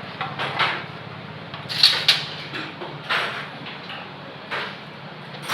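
Metal tools and parts clinking and scraping in a handful of short knocks, over a steady low hum.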